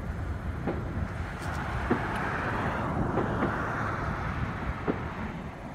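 Fireworks popping at a distance, a sharp report every second or so, over a steady rushing noise.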